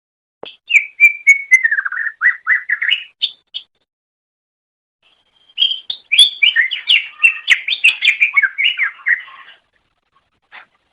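Cucak ijo (greater green leafbird) singing: two bursts of rapid whistled, chirping notes that slide up and down in pitch, the first starting about half a second in and lasting about three seconds, the second starting near six seconds and lasting about four.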